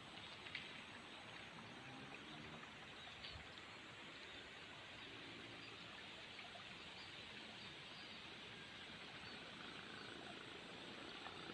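Quiet open-field ambience: a steady faint hiss with a few faint, scattered high bird chirps.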